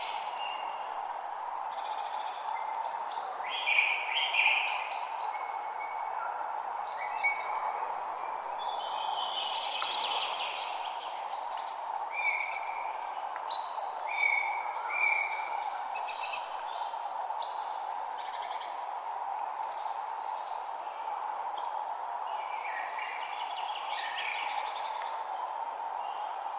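Several songbirds singing and calling, with short whistled notes and chirps coming one after another, over a steady background hiss.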